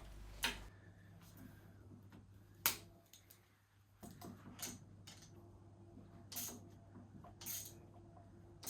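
A few faint, sharp clicks and light knocks, a second or two apart, of small parts and tools being handled at a workbench, over a low steady hum. The sound briefly drops to near silence about three seconds in.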